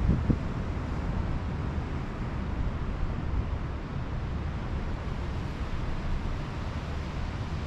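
Pacific Ocean surf on a beach: a steady, even wash with a deep low rumble.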